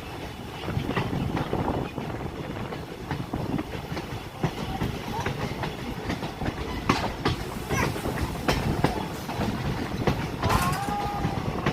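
Passenger train running on the line, heard from aboard: a steady rumble with the wheels clacking irregularly over the rail joints.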